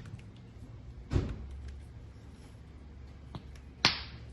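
Two sharp knocks about three seconds apart, the second the louder, over a low steady hum.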